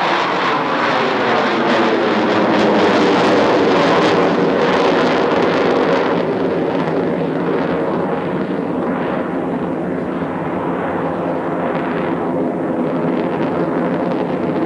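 F/A-18 Hornet jet noise as the aircraft fly overhead: a loud, dense jet sound that peaks a few seconds in, then grows duller as the high hiss falls away after about six seconds.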